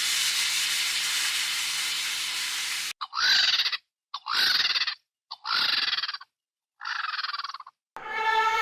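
A steady hiss, then after an abrupt cut four short, shrill animal calls, each under a second, with silence between them. Near the end another animal call begins.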